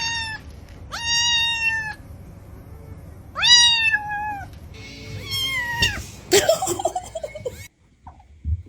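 A domestic cat meowing: a series of long, drawn-out meows about a second each, each rising and then held, ending in a tangle of shorter cries that cuts off abruptly near the end.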